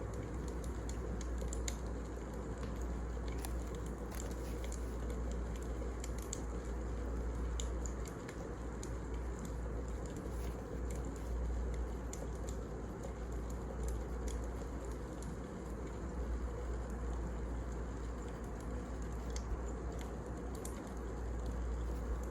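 Firewood burning in a fireplace: a steady low rumble of the fire with scattered small crackles and pops.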